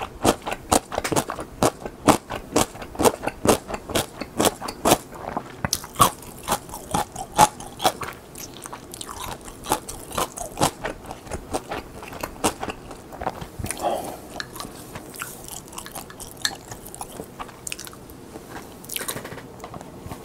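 Crisp seasoned laver (gim) crunching and crackling as it is bitten and chewed close to the microphone. The crunches come quickly for the first several seconds, then thin out into slower, softer chewing.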